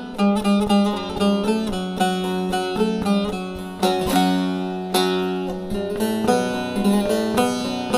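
Instrumental interlude of a Turkish folk song: a plucked string instrument playing a quick melodic run, with a few longer held notes in the middle.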